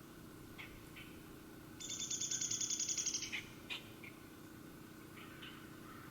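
A small songbird's rapid, even trill of about a dozen notes a second, lasting about a second and a half, with scattered short high chirps before and after it.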